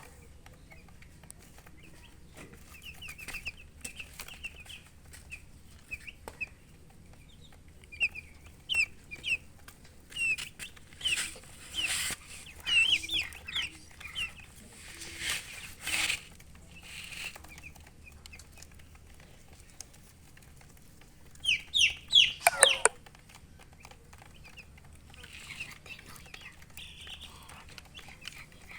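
Baby chicks peeping in short, high chirps, scattered and irregular, with a run of loud, sweeping peeps about 22 seconds in.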